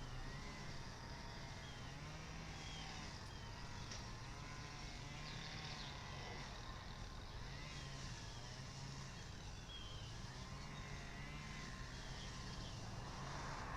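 Steady low hum of distant road traffic, with faint, short bird chirps scattered over it.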